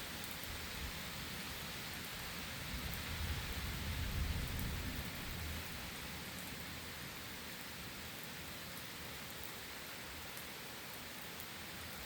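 Steady rain falling, with small drop ticks through it. A low rumble of thunder swells about three seconds in, peaks, and dies away a few seconds later.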